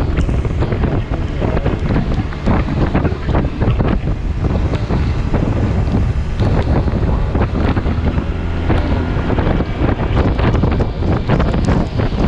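Wind buffeting the microphone of a Yamaha T-Max 530 maxi-scooter riding at road speed in heavy rain: a loud, constant rushing rumble with irregular crackles.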